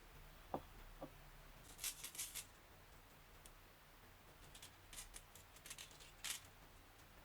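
Marbles rolling along a wooden marble run: two dull knocks about half a second apart near the start, then scattered clusters of faint, sharp clicks as the marbles strike the track and each other.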